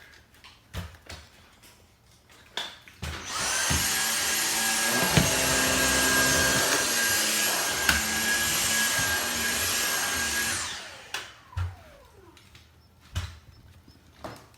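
Vacuum cleaner switched on about three seconds in, running steadily with a high whine for about seven seconds, then switched off, its motor winding down. Scattered light knocks and clicks come before and after.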